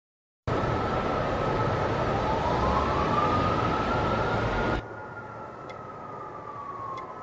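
A wailing siren, one tone sweeping slowly up and down beside a steadier one, over a loud rushing noise. The noise cuts off sharply about five seconds in, leaving the siren fainter.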